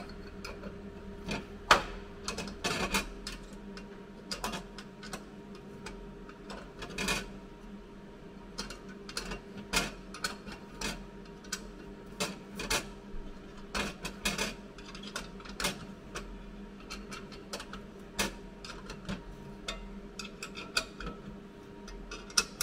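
Irregular metallic clicks and knocks as a bolt is fitted through a newly welded seat-mount reinforcing plate and tightened down, over a faint steady hum.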